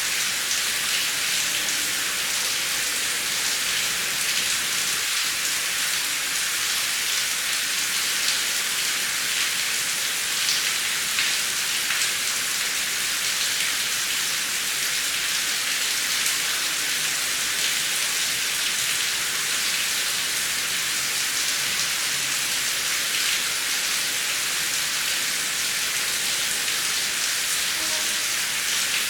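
Heavy rain falling steadily: a dense, even hiss with the patter of single drops showing through now and then.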